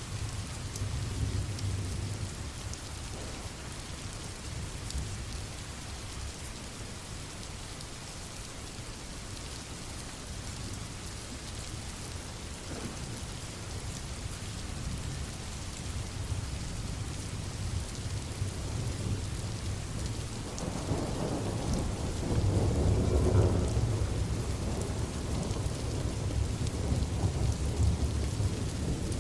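Steady heavy rain falling, with a low rolling rumble of thunder underneath that swells louder for a few seconds about two-thirds of the way through.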